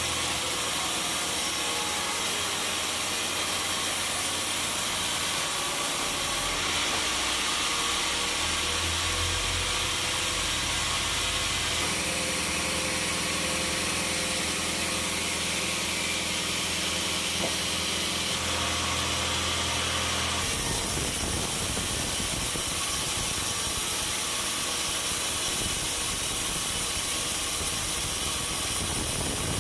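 Sawmill machinery running steadily, a mechanical hum over a constant hiss, changing character abruptly several times.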